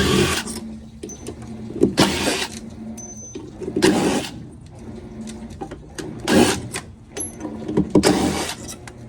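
A power driver running in short bursts, about every two seconds, as it backs out the 7 mm screws holding the stator on a washer's gear case.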